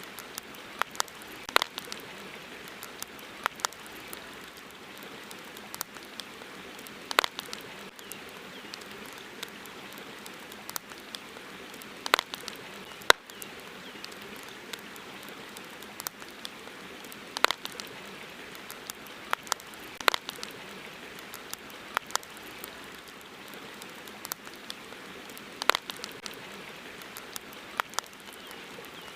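Wood campfire crackling: irregular sharp pops and snaps from the burning logs, spaced a second or several apart, over a steady hiss.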